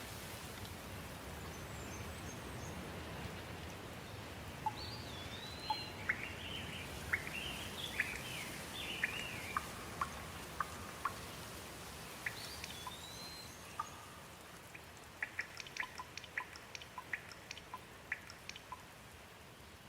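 Steady rain, with birds calling over it in short whistled rising-and-falling calls and chirps. A quick run of short, sharp ticks follows near the end.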